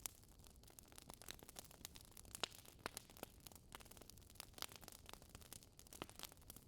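Wood fire crackling faintly, with irregular sharp pops and snaps over a low hiss; a few louder pops come about two and a half, four and a half and six seconds in.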